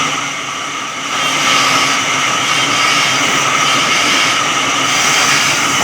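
Electric sawmill saw running steadily with a high, whining hum. It dips a little in loudness at the start and returns to full level about a second in.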